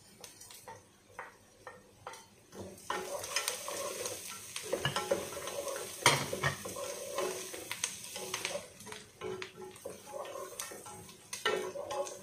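A wooden spoon stirring chopped onions and whole spices in a speckled non-stick pot, with knocks and scrapes against the pot, over oil that starts sizzling steadily about three seconds in. A few taps come before the sizzling, and one knock about halfway is the loudest.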